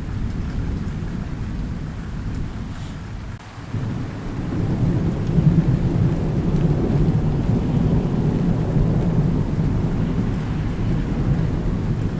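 Steady rain with rolling thunder. The low rumble dips briefly about three and a half seconds in, then swells up and rumbles on through the rest.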